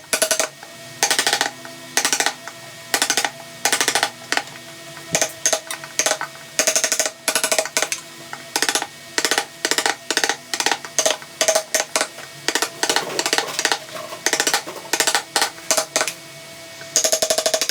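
Short bursts of rapid tapping, about one to two bursts a second, over background music with held notes.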